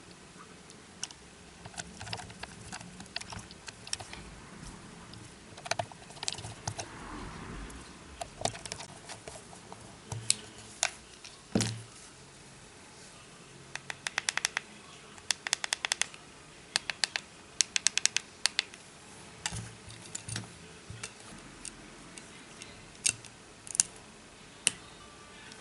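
Small sharp clicks and taps of hand tools and small parts being handled during a phone repair, scattered irregularly, with quick runs of rapid clicking about halfway through.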